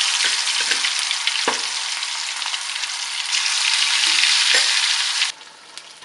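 Marinated chicken pieces frying in hot oil in an iron wok, a loud steady sizzle with a few sharp knocks. A little after five seconds in, the sizzle drops suddenly to a much quieter level.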